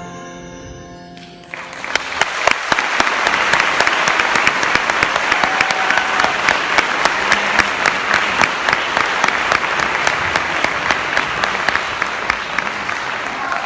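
The last notes of the music die away, and about a second and a half in an audience bursts into applause that keeps going steadily.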